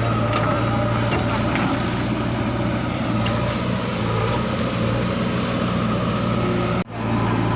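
Swaraj 855 tractor's diesel engine running steadily under load with an even low drone, broken by a brief drop-out just before the end.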